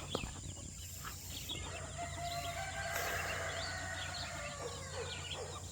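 Many soft, quick chirps and peeps from a yard of poultry and small birds, over a faint steady low hum.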